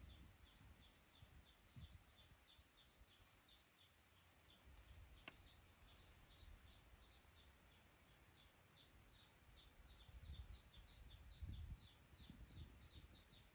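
Quiet outdoor ambience: a bird gives a steady, rapid run of short high chirps, about three or four a second, with low rumbles that grow near the end.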